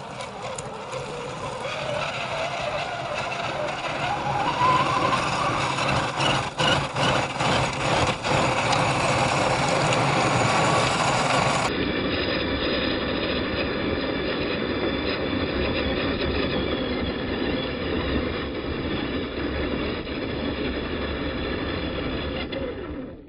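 1/10-scale RC4WD Gelande II crawler driving over dirt: its electric motor and gears whine, rising in pitch a few seconds in, with tyres crunching dirt and a few knocks. The sound changes abruptly about halfway through and cuts off at the end.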